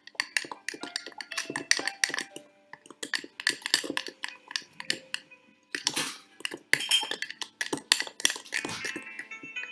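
Spoon stirring batter in a mug, with irregular clinks and scrapes as it knocks against the mug's sides, some strikes ringing briefly.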